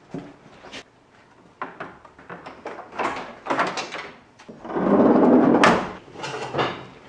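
Knocks and clunks of metal truck body parts being worked loose and handled during a teardown. About five seconds in comes a louder scraping rumble that ends in a sharp bang.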